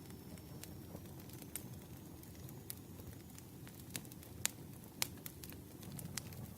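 Campfire crackling: a steady low rumble of burning wood with irregular sharp pops and snaps, the two loudest a little past halfway.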